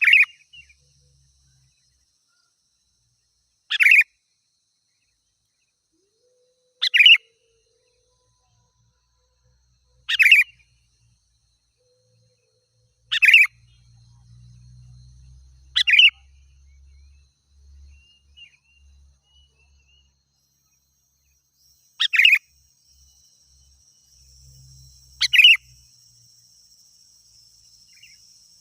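Sooty-headed bulbul (kutilang) giving short, loud calls, eight in all, about one every three seconds, with a longer pause midway.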